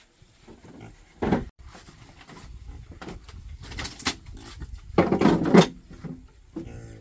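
Farm animals calling: several short, noisy cries, the loudest about five seconds in, and a short pitched call near the end.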